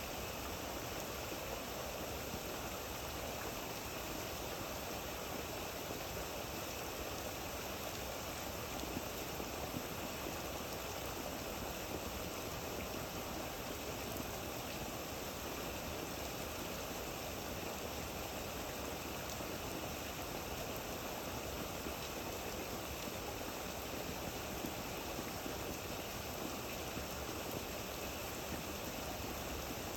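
Steady rainfall: an even, unbroken hiss of falling water.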